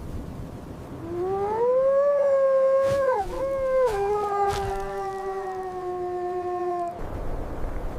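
A dog howling: one long call that starts about a second in, rises in pitch, breaks briefly midway, then holds a little lower and sinks slowly before stopping abruptly near the end. A low rumbling noise is heard before and after the howl.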